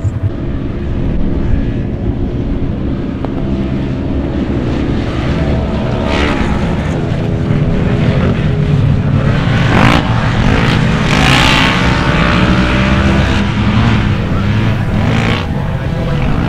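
Ultra4 off-road race car engines running hard on the course, revving up and down, with a louder stretch around ten to twelve seconds in.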